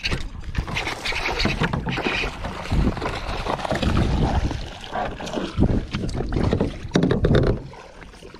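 Water and handling noise around a kayak, irregular splashing and knocks, with wind rumbling on the microphone.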